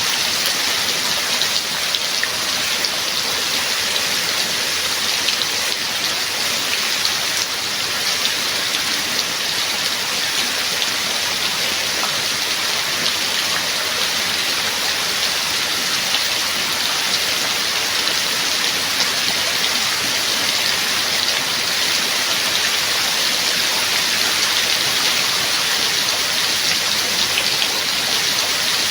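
Steady rain falling, an even, dense hiss of many drops with no breaks.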